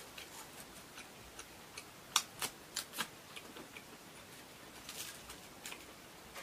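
Close-miked chewing of a crispy fried onion ring: scattered crisp clicks and crunches, a cluster of them about two to three seconds in. A brief rustle about five seconds in as a pizza slice is lifted off aluminium foil.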